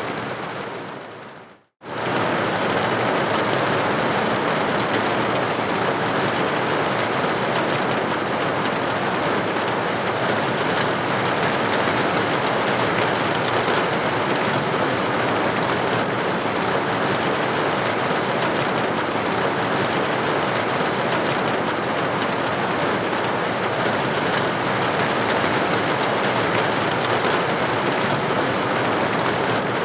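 Steady rain pattering on a roof or window, a dense even hiss of drops. Just after the start it fades out to silence for a moment, then comes straight back at full strength.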